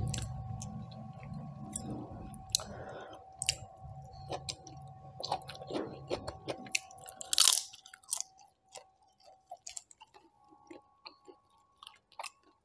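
Close-miked chewing and mouth sounds of someone eating a mutton curry meal by hand, with small crunches and wet clicks. One louder sharp crunch comes about seven and a half seconds in; after that the sounds thin to sparse, faint clicks.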